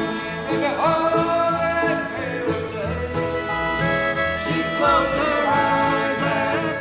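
A gospel group playing a slow country-style song on acoustic instruments: a melody of held notes that slides between pitches, over a steady plucked bass.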